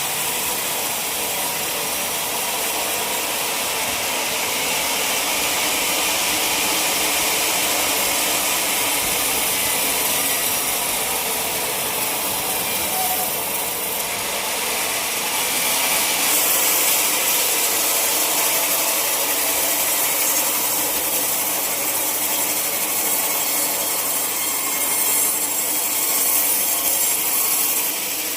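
A sawmill saw running steadily through a log, giving a continuous high-pitched cutting noise with no breaks.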